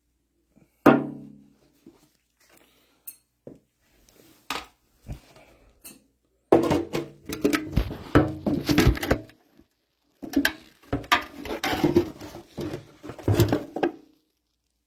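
Metal tools and valve parts being handled on a workbench: one loud clank with a short ring about a second in, a few small clicks, then two long spells of irregular clattering and knocking of metal on metal.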